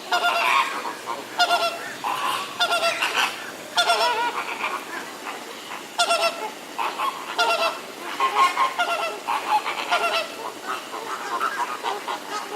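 A flock of waterbirds honking: many short, goose-like honks from several birds at once, in runs with short pauses.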